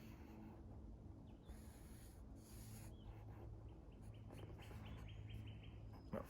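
Quiet outdoor ambience: faint, scattered bird chirps over a low steady hum.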